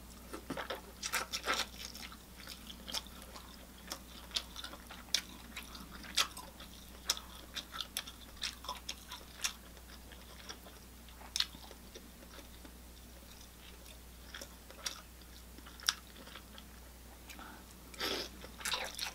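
A person chewing seafood close to the microphone: wet mouth clicks and crunching bites, irregular and short.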